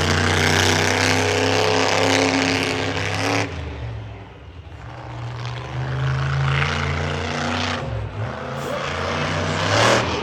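Monster truck engine running hard at high revs, then backing off sharply about three and a half seconds in, and building back up to high revs again.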